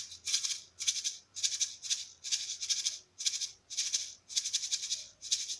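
Small shaker filled with little coloured pebbles, shaken back and forth in a steady rhythm: a rattling hiss about twice a second.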